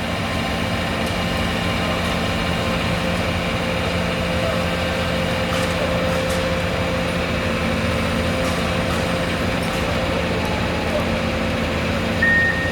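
Komatsu PC210 hydraulic excavator's diesel engine running steadily as the machine backs up. A high steady alarm beep starts right at the end.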